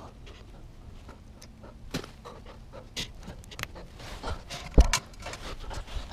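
Scattered clicks and knocks of hand tools and parts being handled during a motorcycle tyre change, with one loud thump a little before the end.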